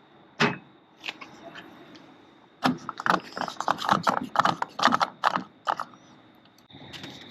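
Fuel cap being screwed onto a pickup truck's filler neck and ratcheting: a single click, then a quick irregular run of clicks and rattles lasting about three seconds.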